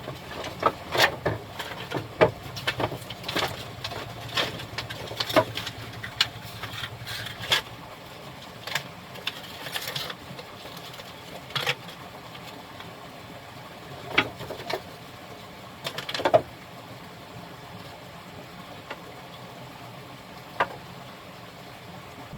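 Irregular sharp knocks and clicks, like objects being handled or struck during manual work. They come thick and fast for the first several seconds, then only now and then, over a steady low hum.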